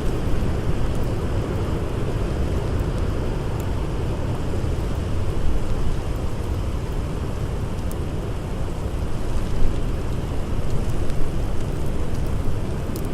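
Blizzard wind blowing steadily as a deep, even noise, with a few faint crackles from a campfire.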